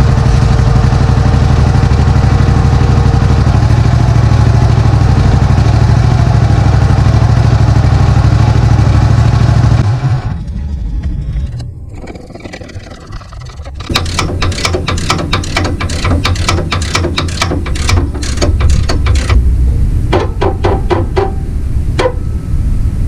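Small engine of a tracked Toro mud buggy running steadily under load. It drops away for a few seconds and then runs again with rapid, irregular clicks and knocks.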